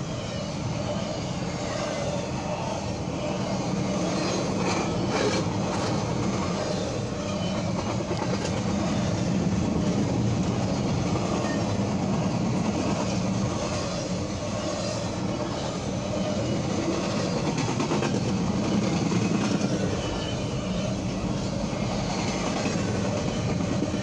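Double-stack intermodal freight cars rolling past at a grade crossing: a steady, loud rumble of steel wheels on the rails, with a few sharp knocks about five seconds in.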